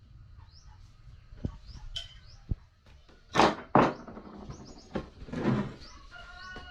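A series of irregular knocks and clunks from construction work, the loudest a pair a little past the middle, with a short creak near the end. A small bird chirps repeatedly in the background.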